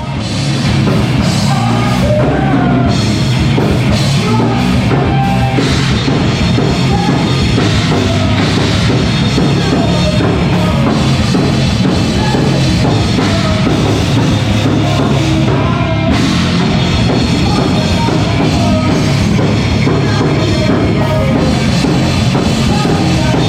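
Live heavy rock band playing loudly and continuously, with a pounding drum kit under dense, full-band sound.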